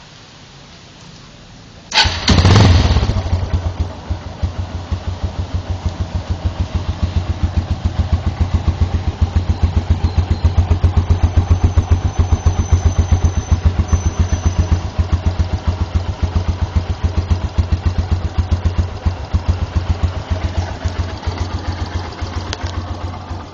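Yamaha Byson single-cylinder motorcycle engine starting about two seconds in, catching at once with a short loud burst, then idling with an even, regular exhaust beat through a NOB1 Neo Silent Sport muffler.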